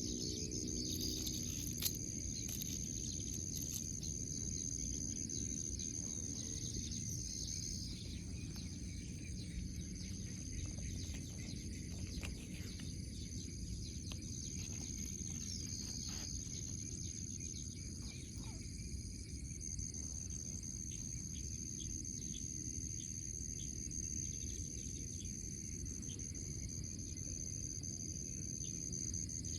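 Steady high-pitched insect trill over a low background rumble, with a few faint clicks.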